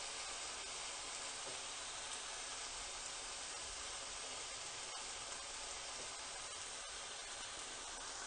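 Chopped onions frying in hot oil in a pan, a soft, steady sizzle.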